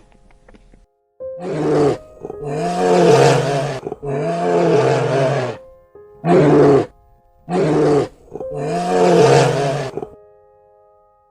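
A large animal roaring six times, each call one to two seconds long with a pitch that rises and falls, over quiet background music.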